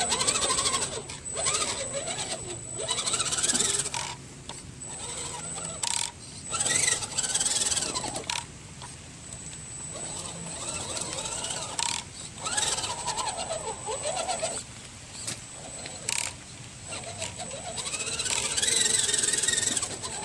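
Electric motor and gearing of a Redcat Gen7 RC crawler whining as it is throttled on and off, the pitch rising and falling in repeated spurts with short pauses between, over a thin steady high whine.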